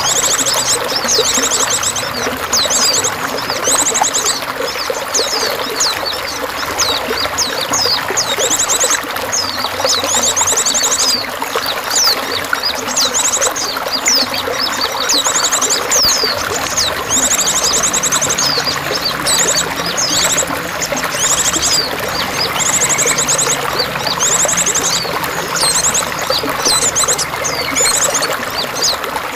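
Continuous running, splashing water with songbirds chirping over it, including many high, fast trills of rapidly repeated notes.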